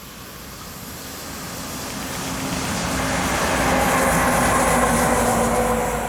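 Electric train approaching and passing on the line, growing steadily louder to a peak about four to five seconds in, then starting to fade; steady humming tones sit over the rush and rumble of the wheels on the rails.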